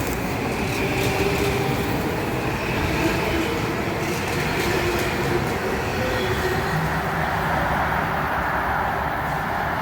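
Passenger train moving along the tracks at the station: a continuous rumble of wheels on rail, with a high ringing note over the first few seconds that fades away.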